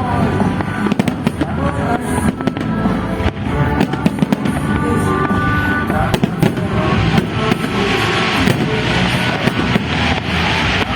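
Fireworks display: a dense, rapid run of bangs from shells bursting, joined about six and a half seconds in by a crackling hiss.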